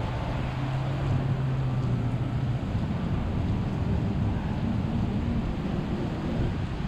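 Strong thunderstorm wind blowing steadily, with wind buffeting the microphone. A low steady hum runs under it for the first two and a half seconds.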